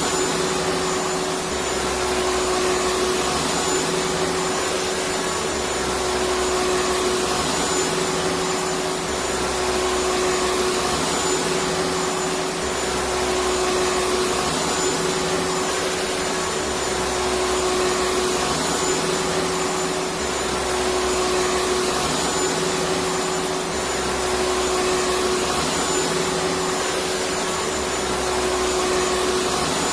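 Electric vacuum cleaner running steadily: an even rush of air with a constant motor tone, and a low hum that swells and fades every two to three seconds.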